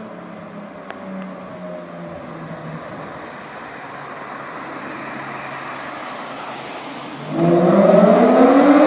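BMW E46 coupe's straight-six, with catless header and straight-piped exhaust, running quietly at low revs, then about seven seconds in it turns suddenly loud and climbs in pitch as the car accelerates hard.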